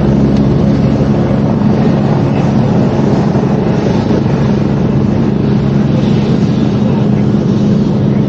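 Loud, steady mechanical drone with a continuous low hum that does not change.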